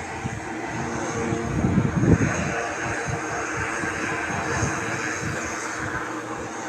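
Airplane engine noise from a fixed-wing aircraft, swelling to its loudest about two seconds in and then running on steadily.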